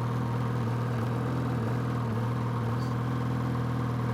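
A 2016 Ski-Doo MXZ Blizzard 600 H.O. E-TEC snowmobile's two-stroke twin engine idling steadily.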